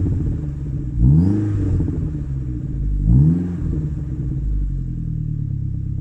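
1987 Saab 900 Turbo's turbocharged four-cylinder engine through a 3-inch exhaust with no extra silencer, blipped twice (about a second in and about three seconds in), each time rising and falling quickly, then settling to a steady running note.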